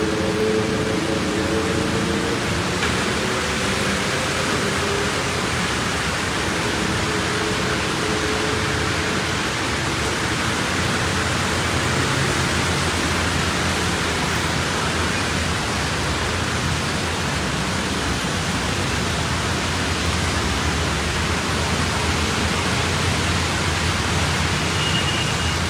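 Steady hiss of heavy rain, with a low hum of traffic moving slowly through floodwater underneath.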